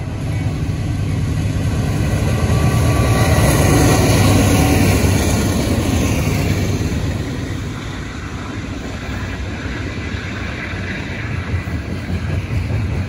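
Two freight diesel locomotives rumbling past at close range, loudest about four seconds in, then the steady rolling noise of double-stack intermodal well cars going by on the rails, with a few sharp clicks near the end.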